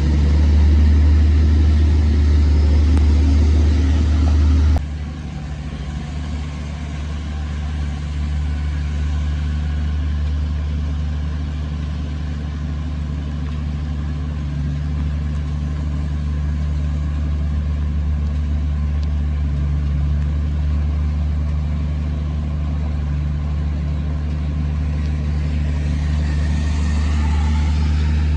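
Diesel engine of heavy earthmoving equipment running steadily with a deep, low hum. The loudness drops suddenly about five seconds in, then holds and builds slightly near the end.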